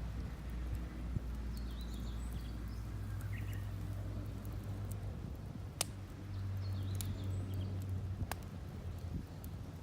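Damp firewood burning in a mesh fire stand, crackling with scattered sharp pops, the two loudest about six and eight seconds in. Faint bird chirps and a steady low outdoor rumble lie underneath.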